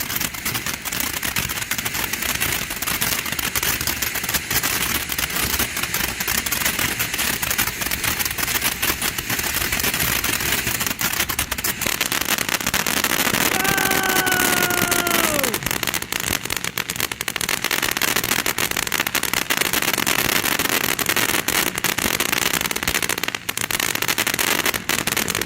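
Consumer ground fountain firework spraying with a steady loud hiss and dense crackling throughout, stopping suddenly at the end as it burns out.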